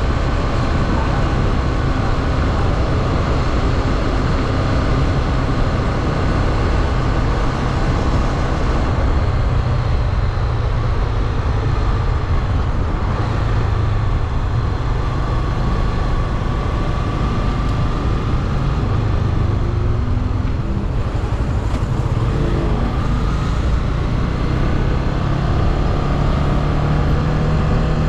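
Motorcycle engine running under way, with wind and road noise on the microphone. The engine note wavers as the bike eases off and speeds up, and rises near the end.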